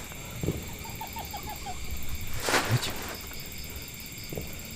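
Night forest ambience: insects trill steadily, and about a second in an animal gives a quick run of about seven short falling call notes. Around two and a half seconds in there is one brief brushing rustle.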